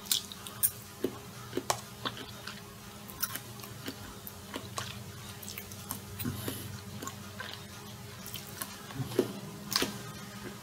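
A person chewing a mouthful of chicken sandwich close to the microphone, with short wet mouth clicks scattered irregularly throughout.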